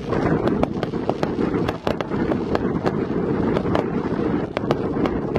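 Ground-level consumer fireworks going off close by: fountains rushing steadily, with sharp cracks and pops several times a second.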